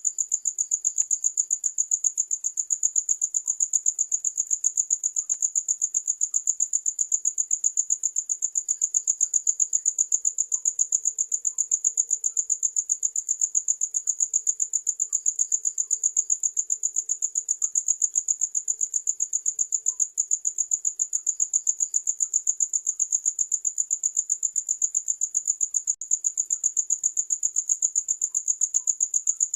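Cricket chirping without a break: one high, steady-pitched chirp repeated several times a second in a fast, even rhythm.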